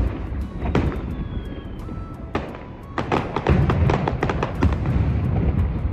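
Aerial fireworks shells bursting: a loud bang right at the start and another just under a second in, then from about two and a half seconds on a dense run of rapid bangs and crackling pops over a continuous deep rumble.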